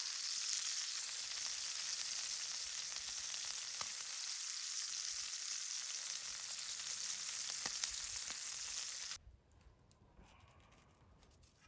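Campfire hissing steadily with scattered crackles; the sound cuts off abruptly about nine seconds in, leaving only faint clicks.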